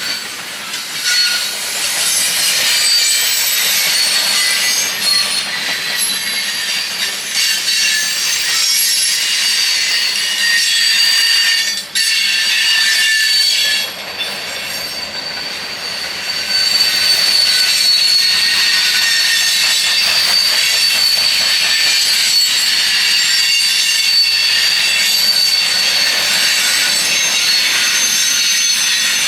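Railroad cars rolling past with their wheels squealing on the rails: several high, shifting squeal tones, briefly quieter a little before halfway, then one long steady squeal holding through the second half.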